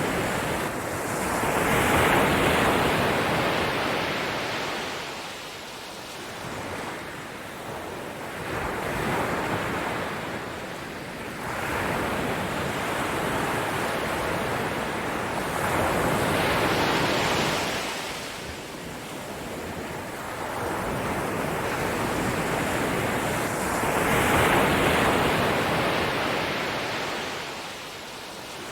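Ocean waves breaking and washing up on a shore in slow swells, each rising and falling away over several seconds, about four times.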